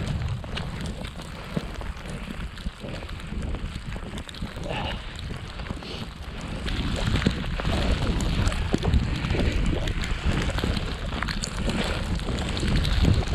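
Wind buffeting the microphone in a snowstorm: a gusting low rumble with hiss, scattered with short ticks and crackles, growing stronger about halfway through.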